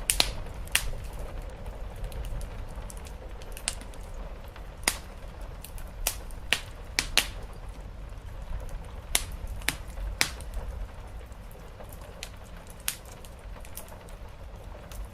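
Wood fire crackling in a fireplace, with about a dozen irregular sharp pops over a steady low rumble, and soft steady rain behind it.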